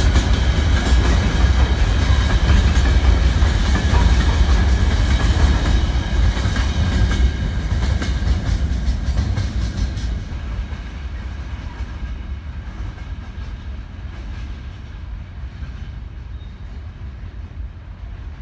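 Freight train wagons rolling past with their wheels clattering over the rail joints. About ten seconds in, the rattling stops as the end of the train goes by, and the rumble fades away.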